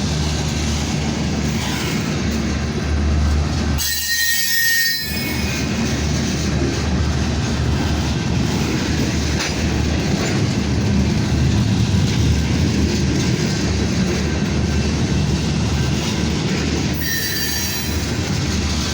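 Freight cars of a slow-moving train rolling past at close range: a steady heavy rumble of wheels on rail, with brief high-pitched wheel squeals a few times.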